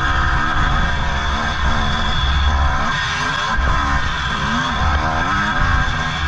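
1983 Honda CR480R's two-stroke single-cylinder engine revving hard under racing throttle, its pitch rising and falling over and over, about once a second.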